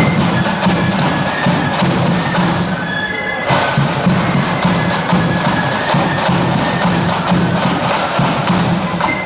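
Marching flute band playing: high flute tunes over steady snare and bass drum beats.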